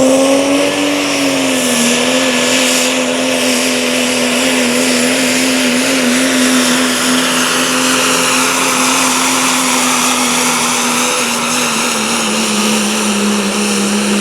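1995 Dodge pickup's 5.9 Cummins straight-six diesel running hard at steady high revs under load while pulling the sled, with a high whistle riding over the engine note. The pitch sags slightly near the end as the truck bogs down.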